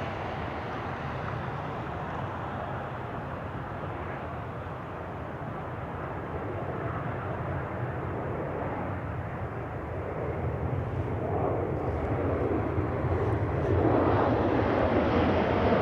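Jet airliner engine noise, steady at first and growing louder over the last few seconds.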